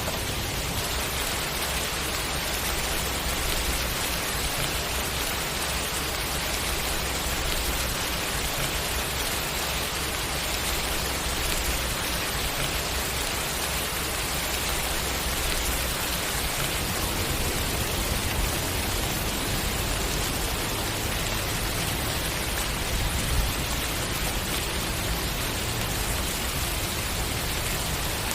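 Steady rain falling in an even hiss, with no breaks or swells.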